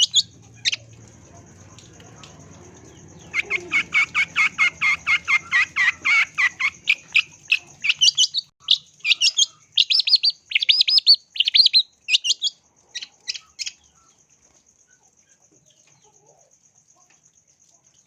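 Long-tailed shrike (cendet) singing a rapid series of sharp chattering notes, about four a second, after a short pause near the start; the song stops about three-quarters of the way through. A thin steady high tone runs faintly beneath the song.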